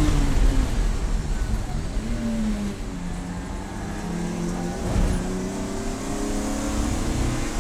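Race car engine running, its pitch falling over the first second, holding steady through the middle, then climbing slowly toward the end. A short sharp knock about five seconds in.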